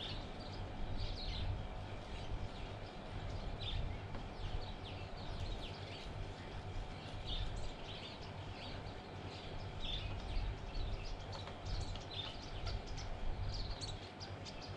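Small birds chirping on and off, short high calls scattered throughout, over a low steady rumble.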